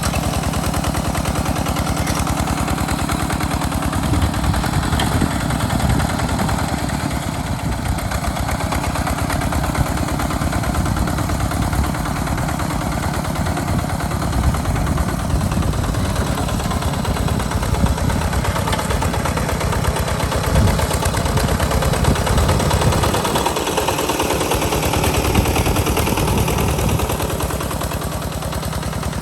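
Tractor's diesel engine running with a fast, even chugging beat while plowing, the low end dropping away briefly about two thirds of the way in.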